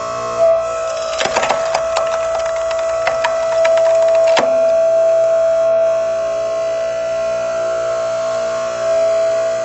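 Hydraulic log splitter running with a steady hum while a log cracks and splinters under the wedge, a rapid run of sharp cracks from about one to four seconds in.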